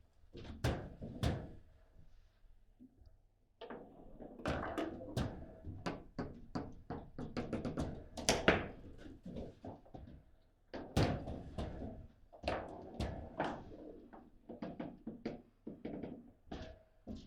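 Table football game in play: irregular sharp knocks and clacks as the ball is struck by the rod-mounted players and bounces off the table, with a rapid flurry of clacks around the middle.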